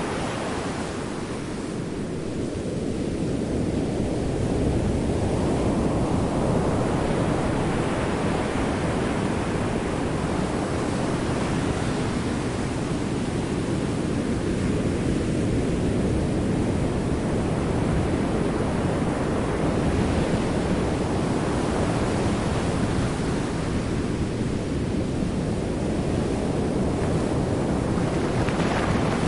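Underwater sound of the sea: a steady low rushing of ocean water, slowly swelling and easing over several seconds at a time.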